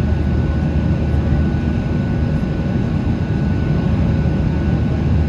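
Boeing 737 jet engines running steadily during takeoff: a constant deep, even noise with faint steady tones above it, unchanging throughout.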